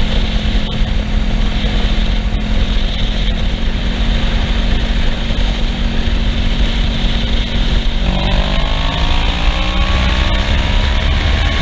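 Kawasaki Ninja 650R parallel-twin engine running at a steady cruise with heavy wind rumble. About eight seconds in, the engine note starts rising as the bike accelerates.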